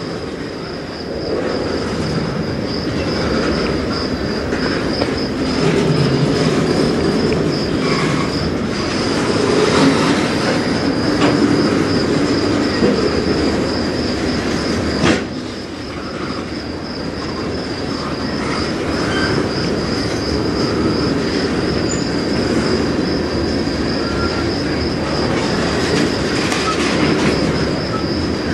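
Freight train tank cars and a covered hopper rolling past close by, with steady wheel-and-rail rumble and clicking over the rail joints, a steady high whine over it. A single sharp clank about halfway through.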